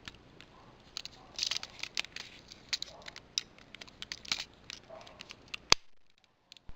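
Hard plastic toy parts of Transformers Rail Racer train figures clicking and rattling as they are handled and pieces are fitted into place, a run of light irregular clicks with one sharper snap shortly before the end.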